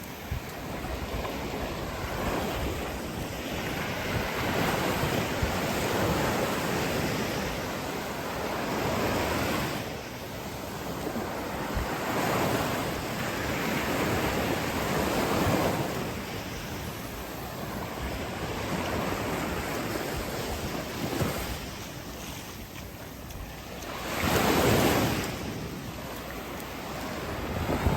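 Waves washing onto a shore in surges a few seconds apart, the loudest about three seconds before the end, with wind rumbling on the microphone.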